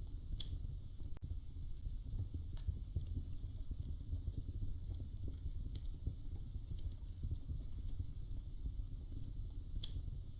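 Wood fire crackling in a fireplace: a low steady rumble of flames with scattered sharp pops and snaps.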